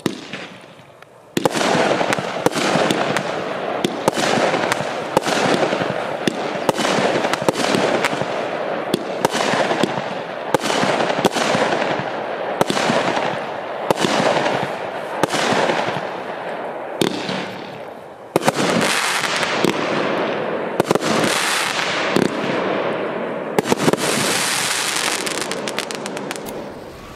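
Piromax Atom 22-shot consumer fireworks cake (20/25/30 mm calibre) firing. Sharp shots and aerial bursts follow one another about once a second, the first about a second and a half in, over a steady crackling hiss. A bright hiss rises near the end before the shots die away.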